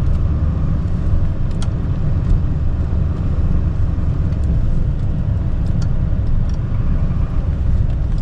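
Chevy K3500 dually's Duramax diesel V8 running steadily with a low rumble while the truck plows snow, with a few faint clicks over it.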